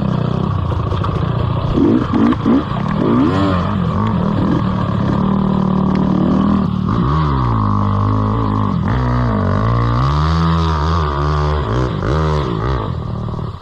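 GasGas EC 300 two-stroke enduro engine running under throttle, with short rev blips two to three seconds in and the revs rising and falling again and again in the second half. The engine sound drops away right at the end.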